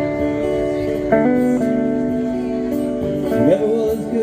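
A band playing a song's instrumental intro, with guitar chords ringing on. The chord changes about a second in, and a gliding, bending note comes in near the end.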